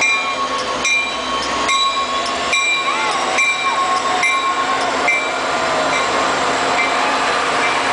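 Diesel locomotives of a slow freight-style train passing close by, engines running, with a steady high-pitched whine. The wheels click over the rails in a regular beat a little under a second apart.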